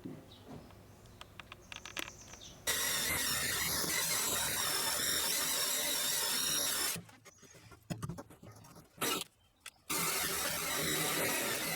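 A metalworking tool on the rusty car body. A loud, steady, harsh noise starts abruptly about three seconds in, stops after about four seconds, and starts again near the end. Small clicks and a brief burst fall in the gap.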